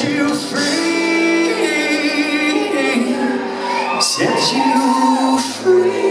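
Live country-rock band music with singing.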